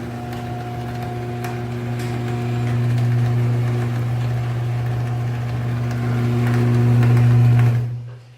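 LiftMaster chain drive garage door opener running, its motor giving a steady hum with light clicks as it drives the door, then cutting off suddenly near the end.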